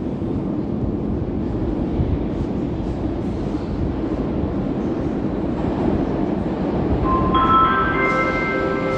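Moskva-series metro train approaching, its rumble growing steadily louder. About seven seconds in, a chord of steady electric whining tones at several pitches joins the rumble.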